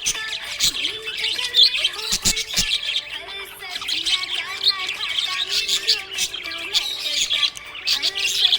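Budgerigars chirping and warbling, a dense, continuous stream of short overlapping chirps. A few sharp clicks come a little over two seconds in.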